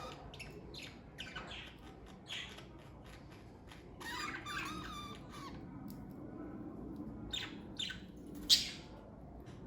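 Budgerigars chirping: scattered short calls, a warbling stretch a little before the middle, and one sharp loud call near the end.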